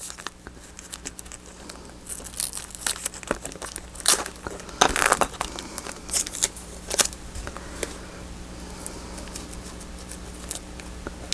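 Paper and washi tape being handled: a run of sharp crinkles and crackles, busiest between about two and seven seconds in, then softer rustling.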